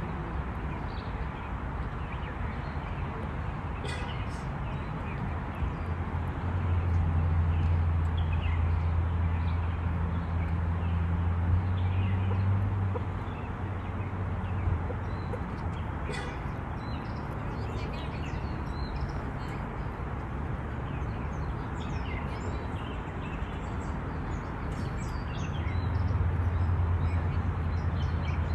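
Outdoor ambience of scattered short bird calls over a steady hiss. A low, steady motor-like hum swells for several seconds about six seconds in and again near the end.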